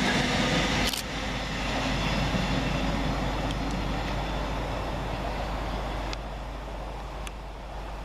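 Train running noise with a whine that ends abruptly about a second in, leaving a steady, slowly fading rumble.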